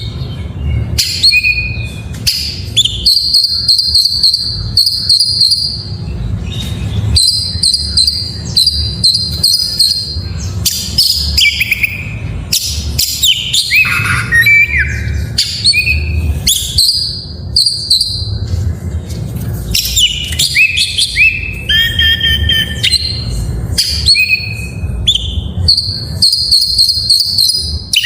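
Oriental magpie-robin (kacer) singing a continuous, varied song of loud whistled phrases, quick down-slurred notes and trills, packed with mimicked fill-in phrases. A steady low rumble runs underneath.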